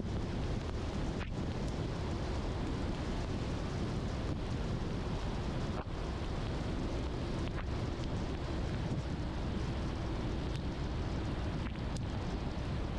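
Steady rumble and hiss of a car driving on a wet, rainy road, with a few faint ticks now and then.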